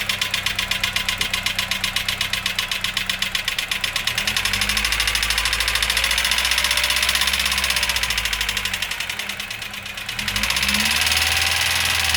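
Vauxhall C14SE 1.4 litre 8-valve engine idling with a fast, even tapping from noisy hydraulic lifters, then revved up twice. It is blipped first about four seconds in and again near the end.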